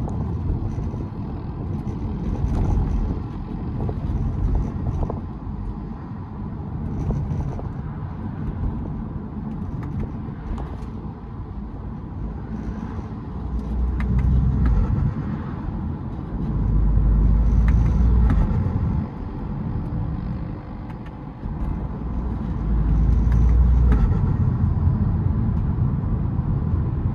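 BMW E92 320d's four-cylinder turbodiesel engine, fitted with a K&N cold air intake, running under way with road noise. Its low rumble rises and falls, with louder surges about halfway through and twice more near the end as the car pulls harder.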